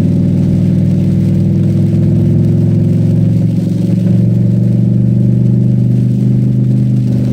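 Cadillac STS-V's supercharged V8 running steadily under power, its pitch holding fairly even.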